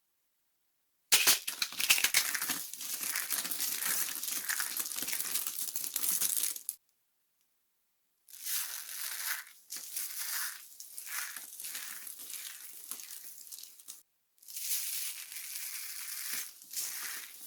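Dry soap being crushed and broken apart, with dense crackling and crumbling. It starts sharply about a second in, stops for over a second midway, then comes back in uneven surges.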